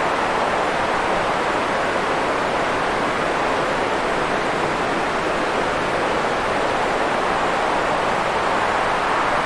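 Steady sleep-track 'white noise': an even, unbroken hiss, strongest in the mid range and soft in the treble, that does not change.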